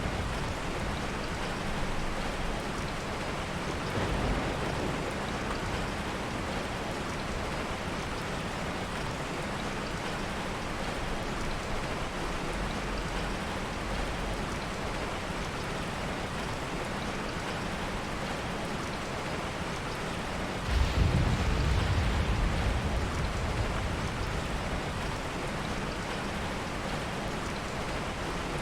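Steady heavy rain, with a low rumble of thunder that comes in suddenly about two-thirds of the way through and fades over a few seconds.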